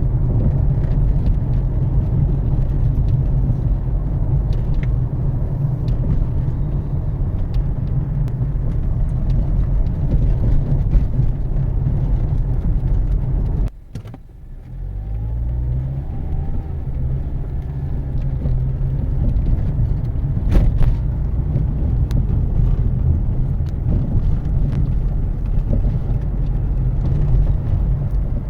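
A 2013 Mazda CX-5 being driven: steady engine and road rumble with a few sharp knocks over it. About halfway through the sound cuts out briefly, then returns with the engine note rising as the car speeds up.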